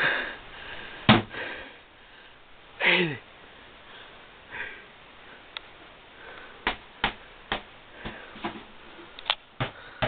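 Scattered sharp knocks and bumps of things being handled and shifted in a small room, one loud knock about a second in and a quick run of them in the second half. Between them come sniffing and one breathy vocal sound falling in pitch.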